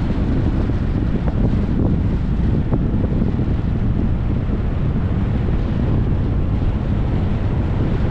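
Steady wind buffeting the microphone over the low rumble of a moving car's tyres on the road, with a few faint ticks.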